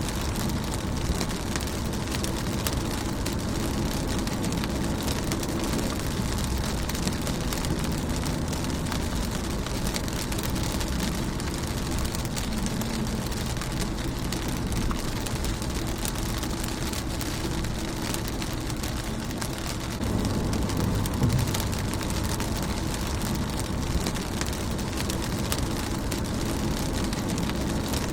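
Steady rain falling on a car's windshield and body: an even hiss sprinkled with small drop ticks over a low rumble. It grows slightly louder about twenty seconds in.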